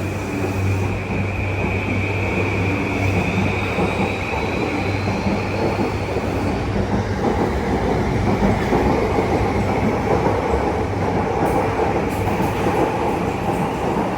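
E235-series Yamanote Line electric train pulling out and gathering speed: the motor whine rises in pitch over the first few seconds over the steady running noise of the cars.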